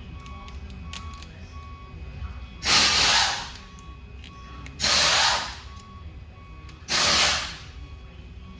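Three short hissing sprays, about two seconds apart, each cutting in sharply and tailing off, while a transmission is assembled in a truck shop. A faint, evenly repeating beep and a low hum sit underneath.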